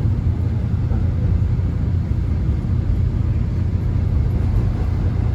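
Subway train running, heard from inside the carriage: a steady low rumble with an even hiss of track and wheel noise above it.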